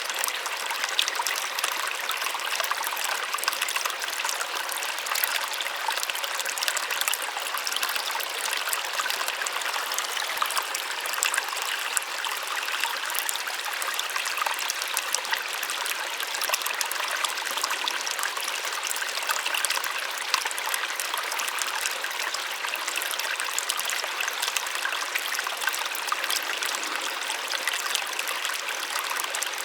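A small waterfall splashing and trickling steadily, a bright water noise with fine crackling splashes and little low rumble.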